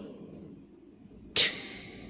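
Quiet room noise with one short, sharp, hiss-like click about one and a half seconds in.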